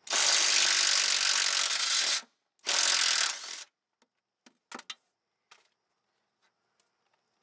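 Battery-powered wrench spinning in two bursts, a long one and then a shorter one about half a second later, while trying to back out a motor mount bolt. This is followed by a few light metallic clicks of the socket and tool against the fastener.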